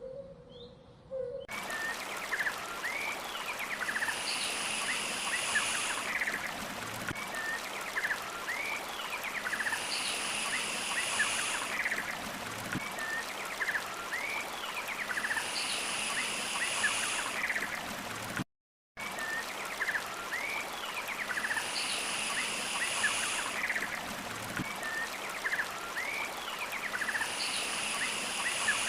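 Running stream with small birds chirping, and a high call that repeats about every six seconds, the whole sounding like a looped nature soundscape. It cuts out for a moment about two-thirds of the way through.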